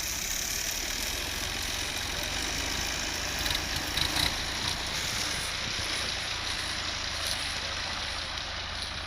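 Fiat 480 tractor's diesel engine running steadily, with a few short knocks about three and a half to four seconds in.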